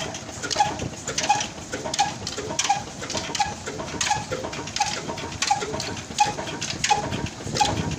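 Old Ruston Hornsby single-cylinder diesel 'black engine' running at slow speed, with an even beat of exhaust puffs and knocks about every 0.7 seconds.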